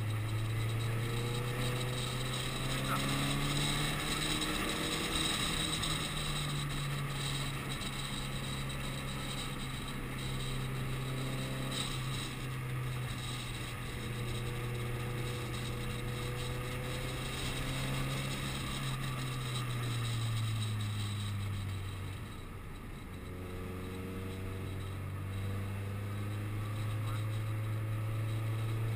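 Subaru Impreza WRX STI's turbocharged flat-four engine heard from inside the cabin, running at fairly steady revs on track. Its note sags and turns quieter about twenty seconds in, then holds low and starts to climb again near the end.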